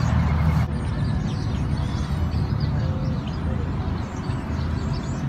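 Many short, high bird chirps scattered over a steady low hum. A louder, even noise cuts off abruptly about half a second in.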